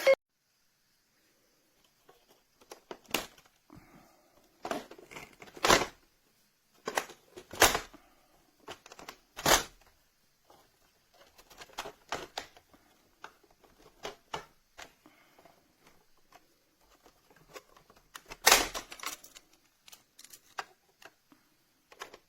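Scattered clicks, knocks and rustles of a plastic toy school bus being handled, with a few louder knocks spread through, the strongest about three-quarters of the way in.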